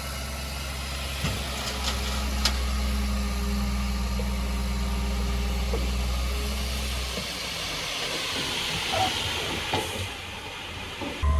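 Heavy diesel engine of earthmoving machinery running steadily, then dropping away about seven seconds in. A hissing rush with a few light knocks follows.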